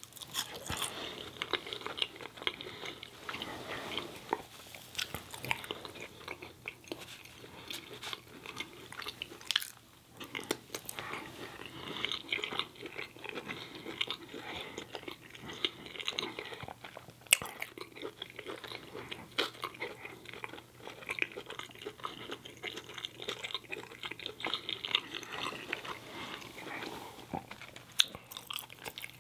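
A person chewing French fries: a dense run of small mouth clicks and soft crunches, with a short pause about ten seconds in.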